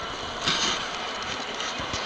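Steady background din of a large, busy railway station waiting hall, with a brief louder noise about half a second in.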